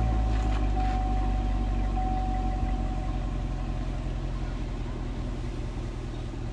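2015 Chevrolet Camaro SS 6.2-litre V8 idling steadily through its stock exhaust, gradually getting a little quieter.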